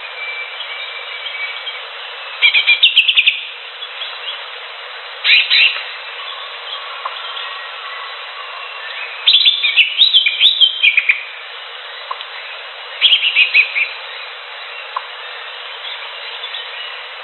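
Green leafbird (cucak hijau) singing in four short, loud bursts of rapid chattering notes, the longest about two seconds near the middle. Under them runs fainter birdsong and a steady hiss.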